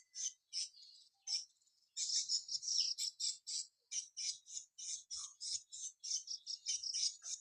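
Swiftlets twittering: a fast run of short, high chirps, about four or five a second, with a brief pause a second and a half in.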